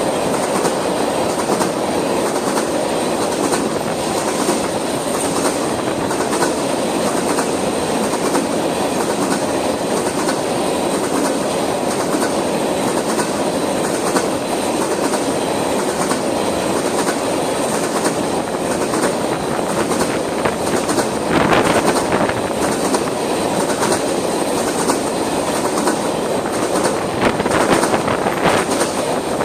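Freight train of oil tank cars rolling past at speed, a steady rumble of wheels on rail with regular clicks about once a second as the wheels cross the rail joints, louder briefly about two-thirds of the way through and near the end.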